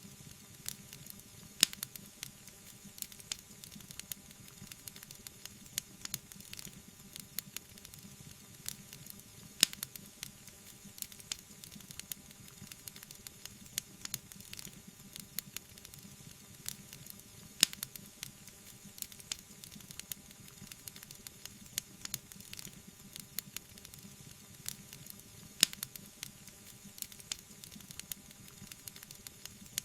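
Wood fire in a fireplace crackling: a steady soft hiss with frequent small sharp pops, and a louder pop about every eight seconds.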